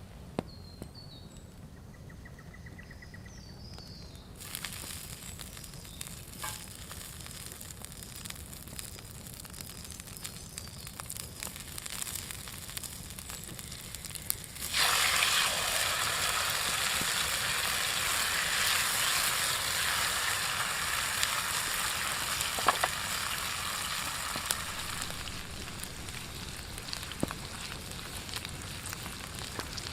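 Food sizzling on a grill over a crackling campfire, with sharp pops from the burning wood. The sizzle comes in a few seconds in, jumps suddenly louder about halfway through and eases off near the end. A few faint bird chirps are heard at the very start.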